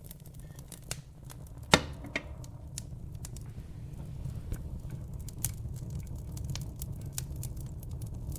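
Wood fire crackling in a fireplace: scattered sharp pops and snaps, one louder pop about 1.7 s in, over a steady low rumble of the flames.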